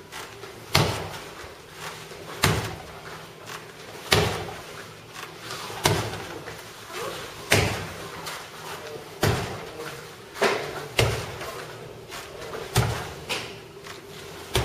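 A series of bare-hand strikes landing on a karate conditioning target, each a sharp thud. There are about ten heavy blows at a steady pace of one every second and a half to two seconds, with lighter hits in between.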